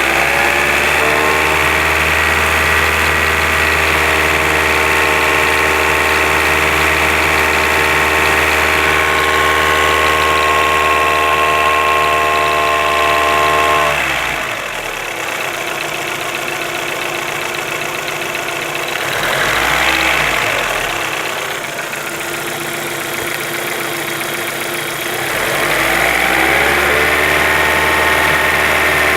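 Car engine running at raised, steady revs. About halfway through it drops back to idle, with one short blip, and near the end the revs rise again. The engine has a knock whose source is being sought.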